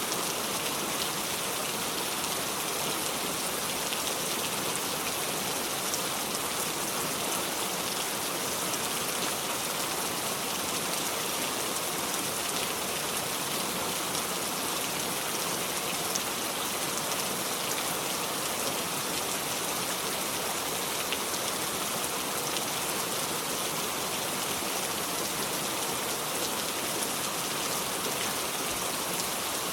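Steady heavy rain falling and pattering on surfaces, an even hiss with scattered drop ticks, with no thunder.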